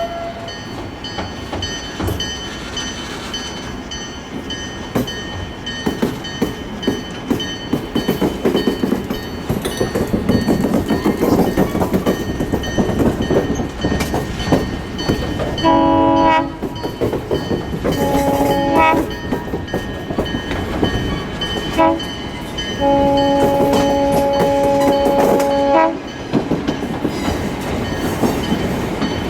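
Train rumbling along the track as its air horn sounds in four blasts: a short one, a longer one, a very brief one, then a long one of about three seconds, in the pattern of a grade-crossing signal.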